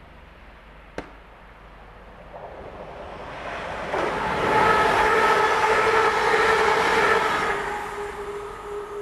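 A Class 350 Desiro electric multiple unit passes close by. The rush of wheels and air rises for about two seconds, is loudest for three or four seconds with a steady whine of several pitches, then fades as the train moves away. A sharp click comes about a second in.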